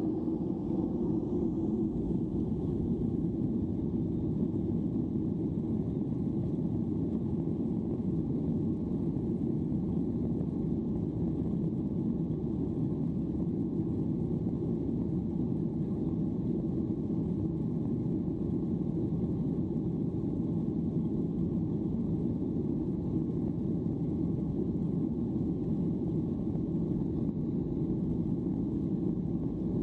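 Steady cabin rumble of a Boeing 737-800 climbing out after takeoff: the drone of its CFM56 engines and airflow around the fuselage, heard from inside the economy cabin.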